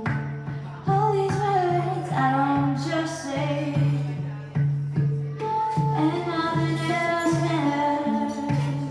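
A woman singing a slow, held melody over a handpan, its low notes struck in a steady, even pulse of a little under two a second.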